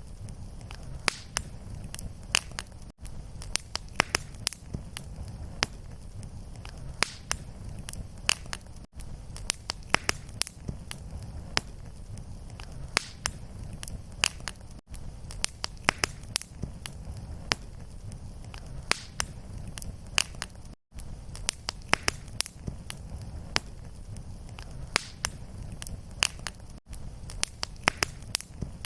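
Wood fire in a fireplace crackling, with frequent sharp irregular pops over a low steady rumble. The sound drops out briefly about every six seconds.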